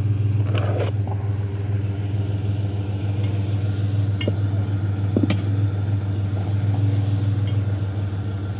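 Pickup truck engine running steadily with a low, even hum, with a few faint clicks.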